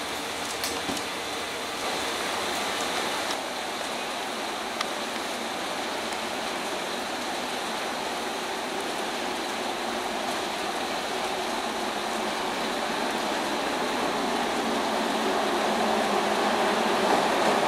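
Korail 8500-class electric locomotive hauling a freight train, approaching and passing along the platform. A steady rushing rumble grows gradually louder toward the end.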